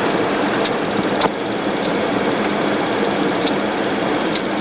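Steady flight-deck noise of a Boeing 737-200 on final approach with gear and flaps down: airflow and the Pratt & Whitney JT8D engines as a loud, even rush, with a few faint clicks.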